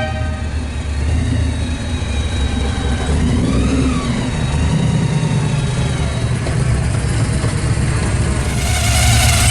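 XB Ford Falcon Interceptor replica's V8 engine running as the car is driven, its pitch rising and falling with the throttle. The sound changes abruptly near the end.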